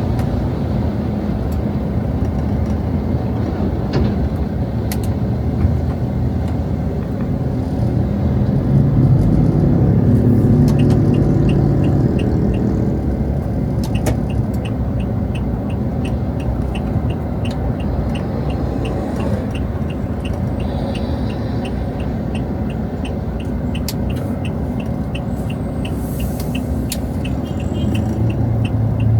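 Road traffic rumbling steadily, with a motor vehicle passing and growing louder about a third of the way in. In the second half a faint, regular high ticking comes in at about two ticks a second.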